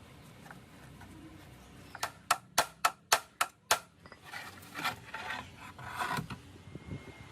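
Workshop hand-tool work: about seven sharp knocks in quick succession, a little under two seconds in all, then a few seconds of scraping and rubbing.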